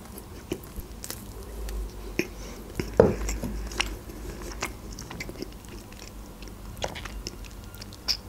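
Close-miked mouth chewing a soft Barni sponge-cake bear, with many small wet mouth clicks. One louder low thump about three seconds in.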